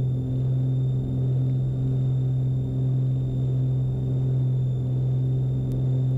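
Cabin drone of a Beechcraft Baron B55's twin six-cylinder piston engines and propellers at climb power just after takeoff: a steady low hum with a slight regular throb.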